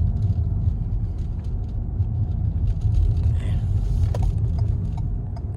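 Car in motion heard from inside the cabin: a steady low rumble of engine and road noise, with a few faint ticks.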